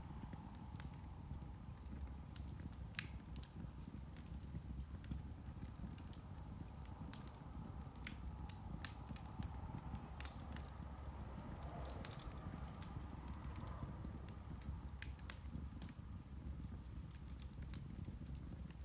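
Turf (peat) fire burning, with scattered sharp crackles and pops, irregular and a few every couple of seconds, over a low steady rumble.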